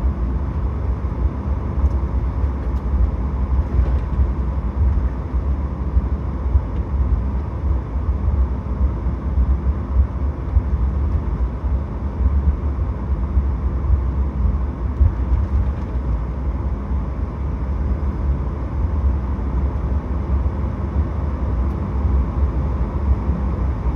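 Cabin noise of a Boeing 737 MAX 8 taxiing to the gate after landing: a steady low rumble from its CFM LEAP-1B engines at idle and the airframe, with a faint steady hum over it.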